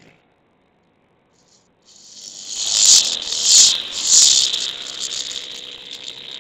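Racing motorcycle engines at high revs, a loud high-pitched buzz. It comes in about two seconds in, swells to three peaks and then slowly fades.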